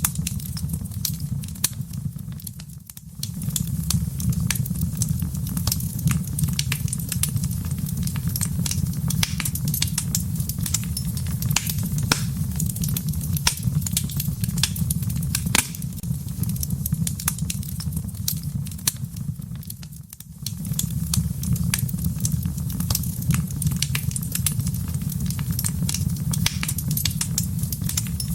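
Wood fire burning in a fireplace: dense crackling and popping over a steady low rumble. The sound briefly drops away twice, about three seconds in and again about twenty seconds in.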